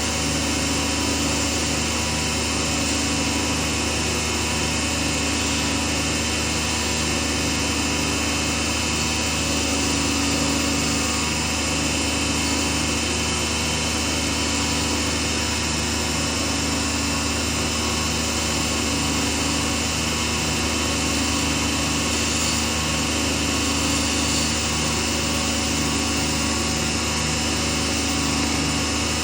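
Small woodworking lathe running steadily at constant speed, with a continuous motor hum and a regular low pulsing.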